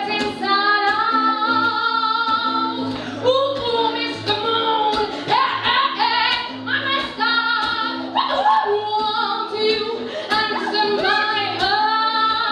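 A woman sings a live song, her voice sliding up and down between held notes, over a steady, repeating low accompaniment with a regular rhythmic pulse. No lyrics are picked out, so the singing is likely wordless vocalising.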